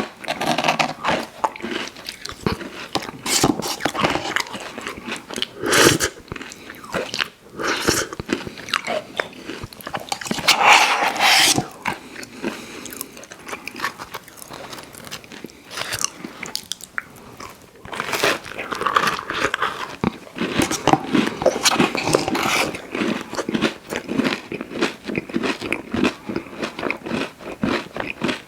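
Close-miked chewing and biting of dessert pie, a crisp crust crunching between the teeth with wet mouth sounds, with louder bites every few seconds.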